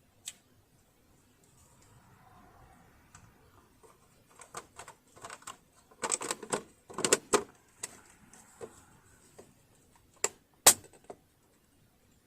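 Irregular light clicks, taps and clatter of metal parts and tools being handled on a sewing machine, thickest a little past the middle, with one sharp click near the end as the loudest.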